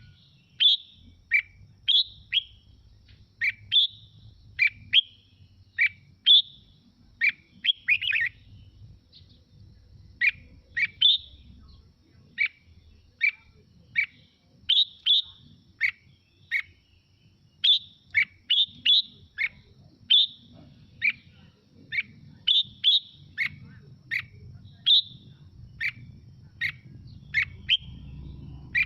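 Red-whiskered bulbul singing: a long run of short, clear whistled phrases, about one or two a second, with a couple of brief pauses.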